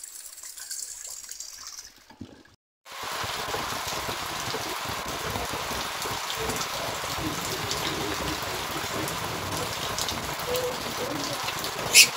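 Rain falling steadily. It comes in suddenly about three seconds in, after a short silence and a quieter watery hiss. A single sharp tap near the end is the loudest sound.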